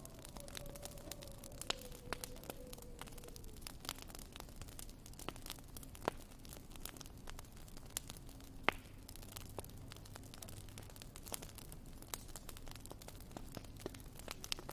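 Wood fire crackling in a fireplace, with irregular small pops and snaps over a low steady hiss. The sharpest pop comes a little before halfway, and a faint tone slides slowly downward in the first few seconds.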